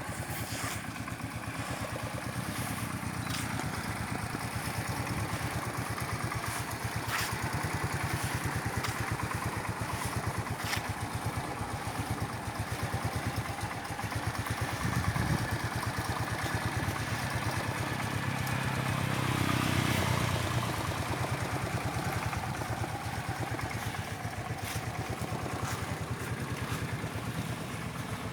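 Kymco Trend motorcycle engine running steadily at idle, with the revs rising and falling back about two-thirds of the way through.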